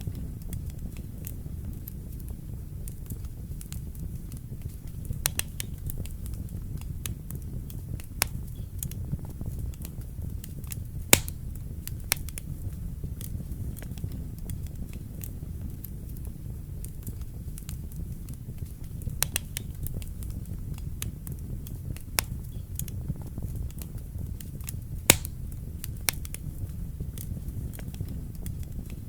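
Wood fire burning in a fireplace: a steady low rumble of flames with scattered sharp crackles and pops, two of them louder, about 11 and 25 seconds in.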